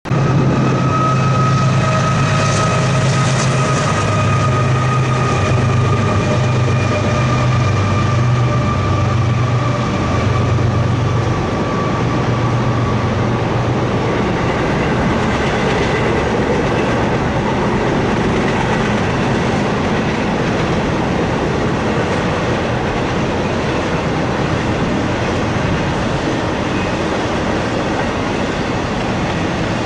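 Intermodal freight train's double-stack container and trailer flatcars rolling past: a steady rumble and clatter of wheels on rail. A thin high whine and a low hum slowly drop in pitch and fade out about halfway through.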